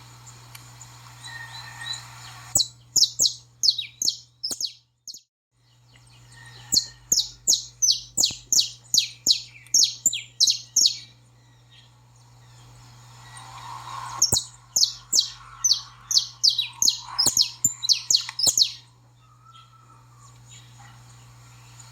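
Saffron finch calling: three runs of sharp, quickly falling chip notes, about three a second, with quieter chirps between them. A steady low hum runs underneath and cuts out briefly about five seconds in.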